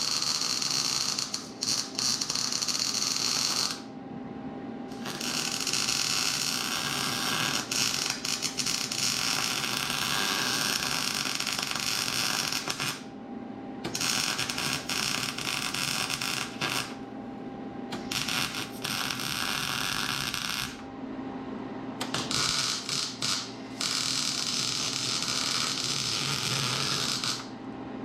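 Electric welding arc crackling in runs of several seconds with brief pauses between them: plug welds (button welds) being laid to fill drilled holes and reattach a part.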